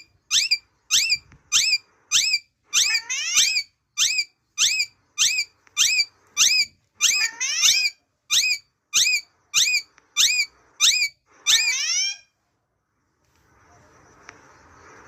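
Pet parrot giving its natural call: a fast run of short, loud, repeated squawks, about one and a half a second, with a few longer calls that rise and then fall mixed in. The calling stops about twelve seconds in, leaving only faint background noise.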